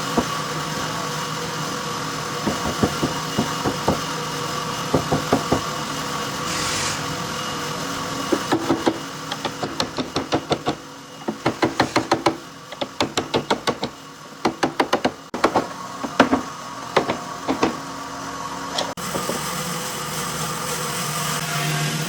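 Runs of quick, sharp knocks, several a second, over a steady machine hum; the knocks start about two seconds in and stop a few seconds before the end.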